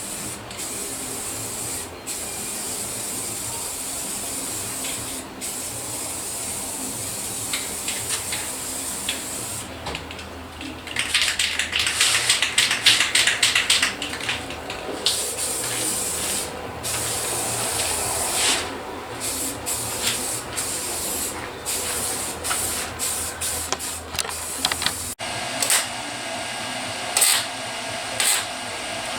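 Welder laying short stitch welds on sheet steel in a rust repair: a sizzling, crackling hiss that stops and starts every second or two, thickest in the middle. Near the end a steadier machine hum takes over.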